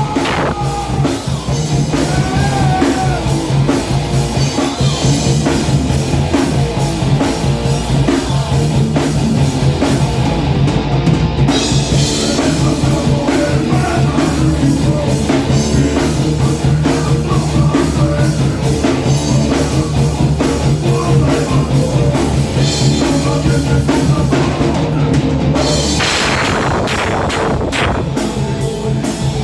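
Heavy metal band playing live: drum kit with bass drum, electric guitar and bass in a steady, loud rock groove, with a swell of cymbals near the end.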